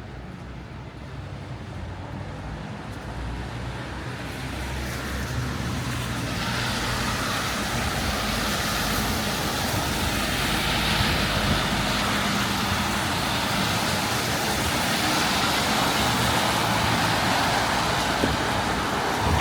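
Road traffic on a wet street: a low engine hum early on gives way to a tyre hiss that grows louder over several seconds and then holds steady.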